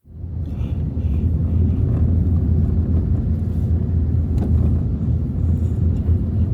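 Strong wind buffeting the microphone: a loud, steady low rumble that starts abruptly.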